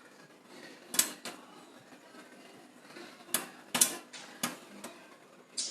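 Popcorn kernels popping inside a paper bag in a running microwave: about half a dozen separate, irregular pops over a faint steady hum, the sparse popping of the early stage before it speeds up.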